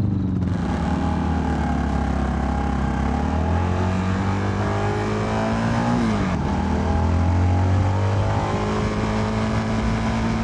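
CFMoto 300NK's single-cylinder engine pulling along at road speed, with wind rushing past the rider; about six seconds in the pitch rises briefly and drops sharply as he shifts gear, then it settles to a steady note.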